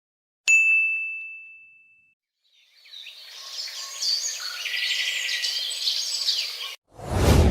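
A single bell-like ding that rings and fades out over about a second and a half. It is followed by a few seconds of birds chirping. Near the end a loud rush of noise suddenly starts.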